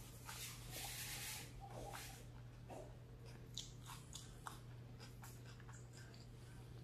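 Faint close-up eating sounds: chewing and small wet mouth clicks from eating a fish taco, with a brief hiss about a second in, over a steady low hum.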